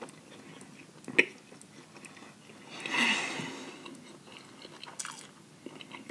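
Close-miked chewing of a mouthful of crunchy Popeyes fried chicken sandwich: wet mouth sounds and scattered smacking clicks, with a louder noisy swell about halfway through.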